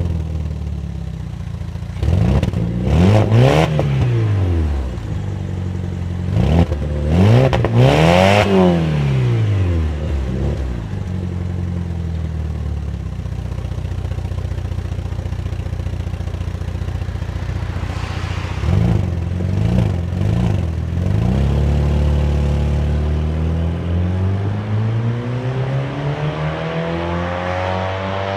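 Muffler-deleted exhaust of a BMW E46 316i's N42B18 1.8-litre four-cylinder engine, idling and being free-revved: two big revs near the start, a few quick blips in the middle, and a slow steady rise in revs near the end.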